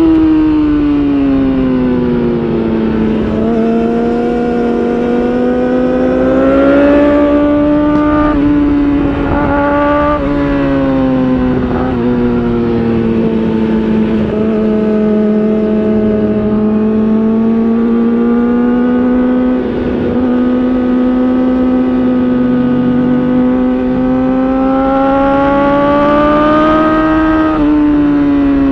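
2019 Yamaha R6 inline-four running through an Akrapovic titanium exhaust under way. The engine note falls, climbs and eases off again with the throttle, with a few brief steps in pitch as gears change, and a sharp drop near the end.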